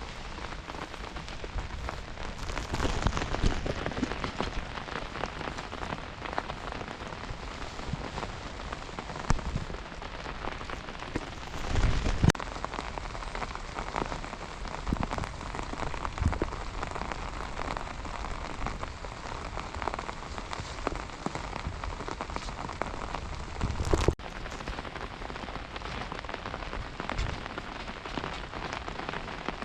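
Steady rain falling, a dense hiss made of countless small drop impacts, with a brief louder low thud about twelve seconds in.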